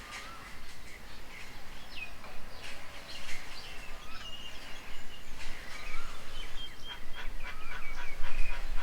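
Several birds calling together: a busy mix of short chirps and whistled notes that slide up or down, overlapping, with a low rumble growing near the end.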